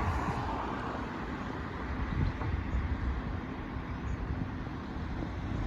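Steady low rumble of passing vehicles, with wind buffeting the microphone.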